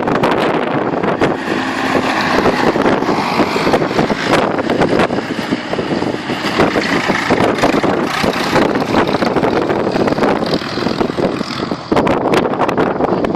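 Tractor engines running, with wind buffeting the microphone throughout.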